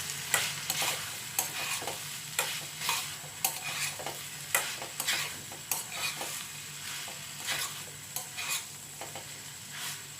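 A spatula scraping and knocking against a frying pan as chicken-and-egg roll filling is stirred, one to two strokes a second, over a steady sizzle.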